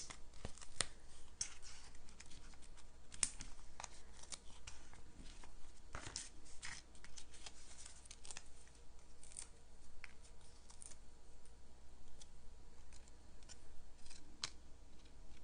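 Paper-crafting handling noises: irregular small clicks and taps of cardstock, adhesive sheets and tools being handled on a work surface.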